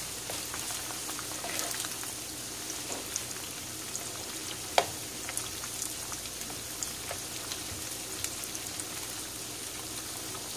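Coated chicken pieces frying in hot oil in a pan, a steady sizzle full of small crackling pops as they are stirred. A single sharp click stands out about five seconds in.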